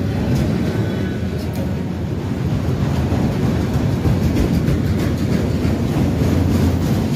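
Train rolling past close by: a steady heavy rumble with wheels clicking over rail joints, the clicks coming more often near the end.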